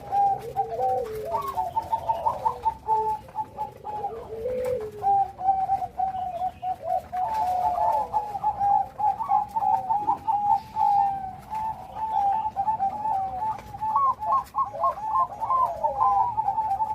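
Zebra dove (perkutut, Bangkok line) cooing continuously in quick trilled, stuttering phrases, with a lower falling coo mixed in during the first few seconds.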